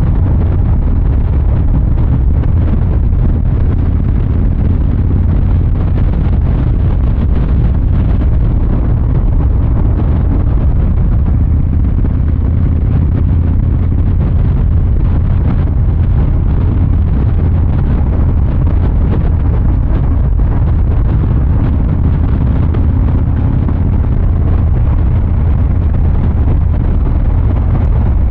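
Harley-Davidson Fat Boy 114's Milwaukee-Eight 114 V-twin engine and exhaust running steadily under way, loud and even, without hard acceleration.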